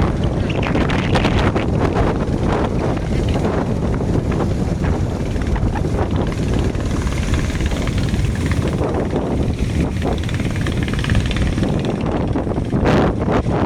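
Motorised fishing boats' engines running steadily, mixed with wind buffeting the microphone.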